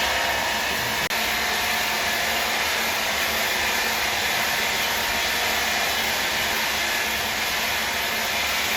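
A woodworking machine running steadily, giving an even whooshing hiss, with a brief dropout about a second in.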